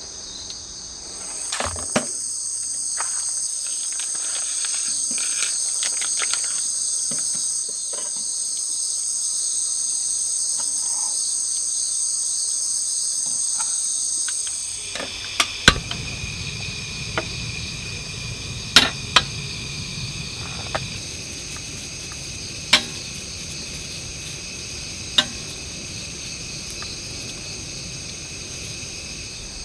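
Crickets and other insects chirring steadily in high-pitched trills; about halfway through the chorus changes and a low background hiss comes in. A few sharp clicks or knocks sound over it, mostly in the second half.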